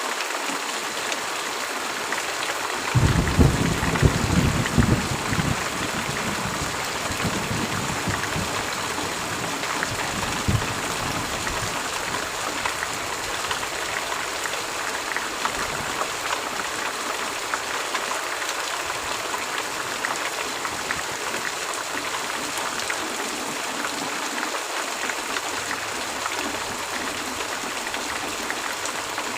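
Heavy rain falling steadily, an even hiss of drops. About three seconds in a low rumble of thunder rolls in, loudest over the next two seconds, then fades out in a few weaker rumbles before the rain carries on alone.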